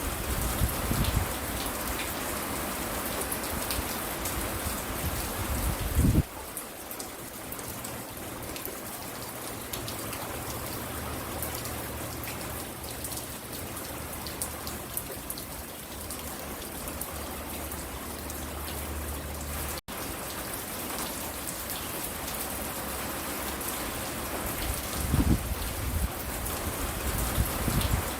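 Steady rain falling and pattering on the porch and the surfaces around it. Low rumbles come through in the first few seconds and again near the end, and the sound changes abruptly about six seconds in and drops out for an instant about twenty seconds in.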